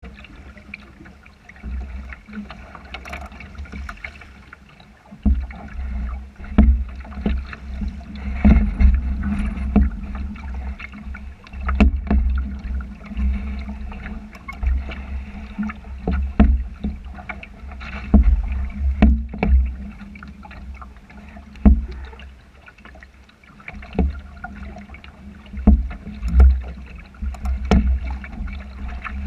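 Sailboat under way in a race: water slapping and splashing against the hull with irregular sharp knocks, and gusty wind buffeting the microphone.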